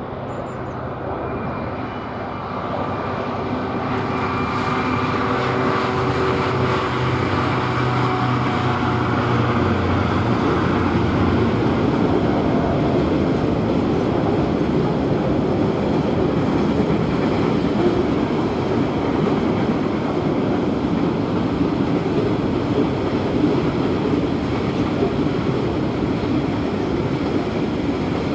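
A freight train of container wagons passing behind DB Class 66 diesel-electric locomotives working top-and-tail. First comes the steady drone of the lead locomotive's two-stroke V12 diesel, growing louder. After about ten seconds it gives way to a continuous noise of wagon wheels running over the rails as the container wagons roll by, and the rear locomotive passes near the end.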